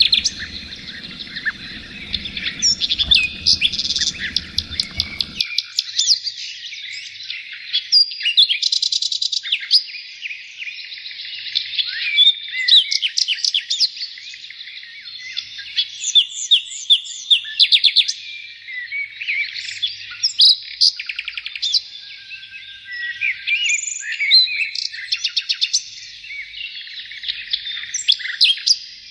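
A chorus of many songbirds singing at once: overlapping chirps, rapid trills and whistles. A low background rumble under the birds cuts off abruptly about five seconds in.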